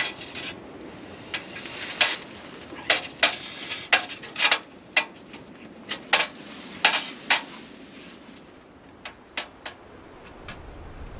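Metal cookware being handled: a dozen or so sharp clinks and knocks at irregular intervals, thinning out over the last few seconds.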